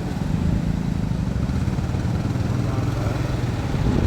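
A motor vehicle's engine running steadily at low revs, a continuous low rumble.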